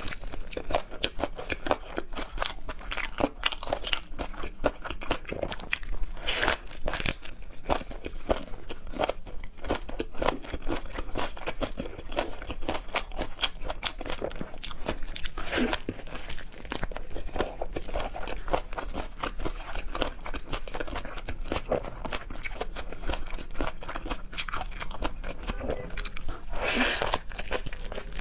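A person chewing crunchy food close to the microphone: a steady run of wet crunching clicks, with a few louder bites spread through.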